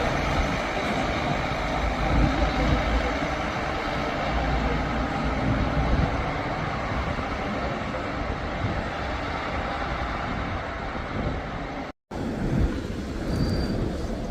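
Steady roadside traffic noise of vehicles running and passing, with an abrupt cut to silence for a moment about twelve seconds in.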